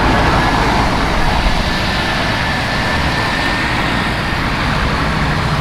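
Busy road traffic: many car engines running together in a steady, loud wash of noise.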